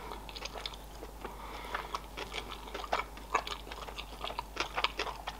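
Close-miked chewing of a mouthful of sushi roll: a steady string of short mouth clicks and smacks.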